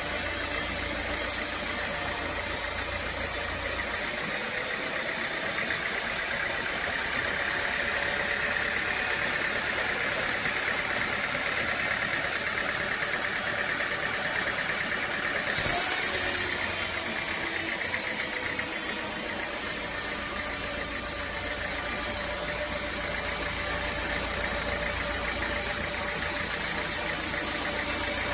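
Sawmill machinery running steadily, with a short louder burst about fifteen seconds in.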